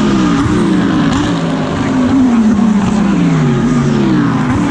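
GT3 race car engine heard onboard, its revs falling under braking and jumping up in quick steps as it downshifts, then running down again through a long, slow fall in pitch before picking up near the end.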